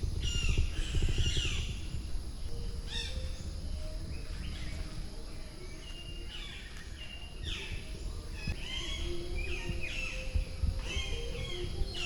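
Several birds calling, with repeated short, falling chirps and whistles throughout, over a steady low rumble.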